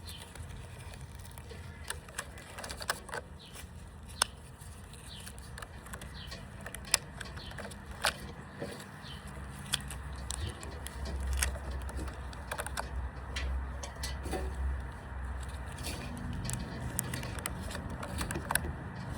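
Rubber bands being stretched and snapped onto a watermelon: scattered sharp snaps and clicks every second or two, with a low rumble from about ten to fifteen seconds in.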